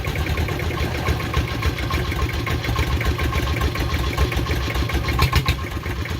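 Farm vehicle's diesel engine running steadily with a fast even beat, with a few sharper clicks a little after five seconds in.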